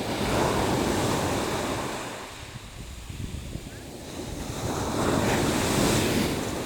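Sea waves surging in and washing back: two swells of surf, one near the start and one near the end, with a lull between them.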